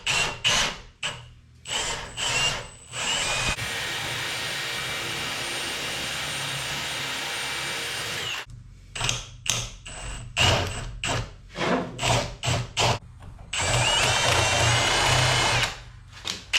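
Power drill boring a hole into a wooden handle, run in short stop-start bursts and in two longer steady runs, the first a few seconds in and the second near the end.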